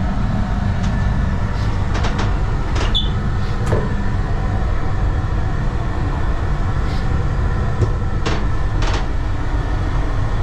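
Class 802 train running, a steady low rumble heard inside its toilet compartment, with several sharp knocks or clicks about two to four seconds in and twice more near the end.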